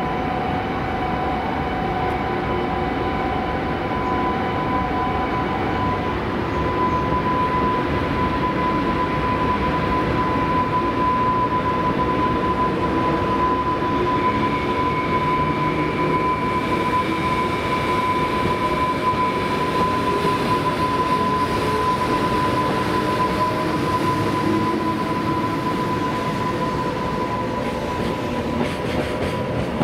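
JR Freight EH500 electric locomotive pulling a container freight train away from the station: a steady rumble of the train running, with a thin high whine held throughout. Container wagons roll past near the end.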